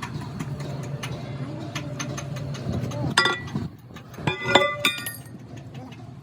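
A steady low machine hum, then metal parts clinking and ringing, once about three seconds in and in a short cluster about four to five seconds in.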